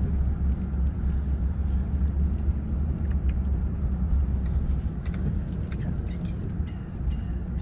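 Car driving, heard from inside the cabin: a steady low rumble with scattered faint ticks.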